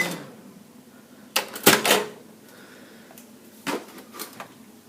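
Microwave oven's hum cuts off with a short beep right at the start as its run ends. Then come sharp clacks and a rattle about a second and a half in, and a few lighter clicks near the end, as the microwave door is opened and the CD is handled.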